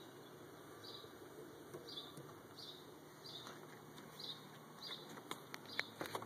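A bird chirping faintly, one short chirp repeated roughly every two-thirds of a second, with a few light clicks near the end.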